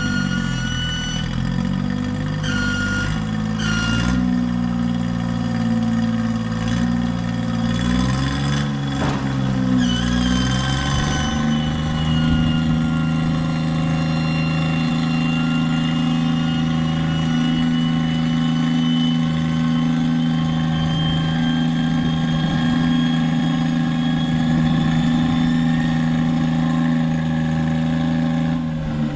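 An engine running steadily, its pitch shifting up and down a few times in the first ten seconds or so before settling.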